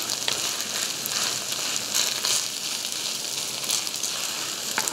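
Beef brisket fried rice sizzling steadily in a hot stone pan, with small crackles, as the rice crusts on the bottom into crispy nurungji.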